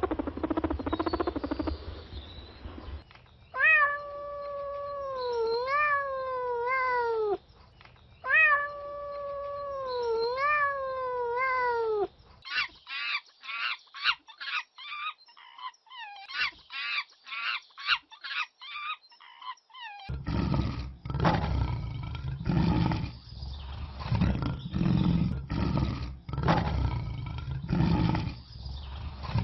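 A run of different animal calls. First come two long, wavering, cat-like yowls, each a few seconds long. Then a quick series of short chirps, and from about two-thirds of the way in, loud, deep calls repeated over and over.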